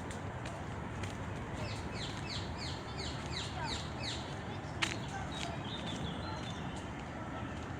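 A bird singing a quick series of about eight falling high notes, roughly three a second, over a steady background hum; a single sharp click near the middle, then a few faint high chirps.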